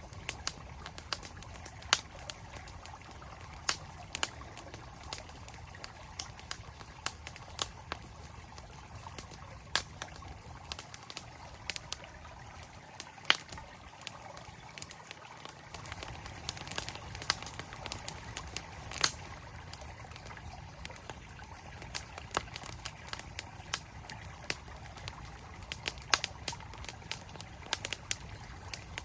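Wood fire crackling with irregular sharp pops, a few a second, over the steady rush of a flowing stream.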